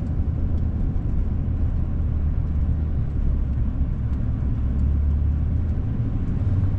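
Steady low rumble of a car driving, engine and road noise heard inside the cabin.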